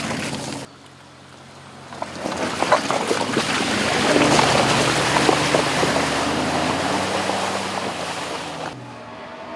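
Aston Martin DBX's twin-turbo V8 running low beneath a rushing, crackling noise from the tyres working over rough off-road ground; the noise swells about two seconds in and eases near the end. The sound cuts twice, and in the last second a clearer engine note comes in.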